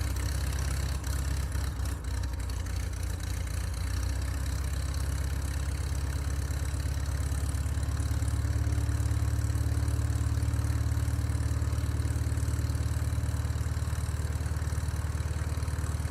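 A small engine idling steadily with a fast, even beat.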